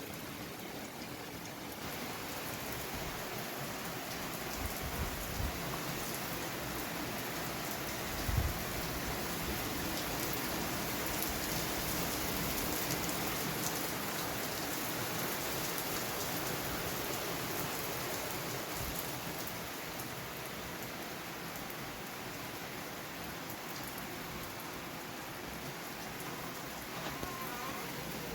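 Steady heavy rain falling in a downpour, an even hiss of drops on surfaces. A brief low thump stands out about eight seconds in.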